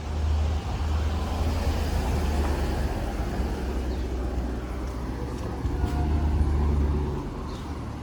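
Road traffic: a steady low engine and tyre rumble of vehicles going by, with one passing louder about six seconds in.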